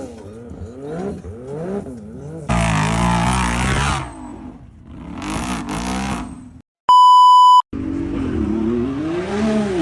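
Car engines revving, their pitch rising and falling, with abrupt changes in sound as the footage cuts. About seven seconds in, after a moment of silence, a loud steady electronic beep lasts under a second before the engine sound returns.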